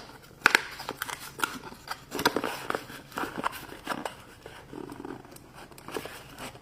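Hands opening a toy package: a string of irregular plastic clicks, crinkles and rustles as the wrapping and small parts are handled.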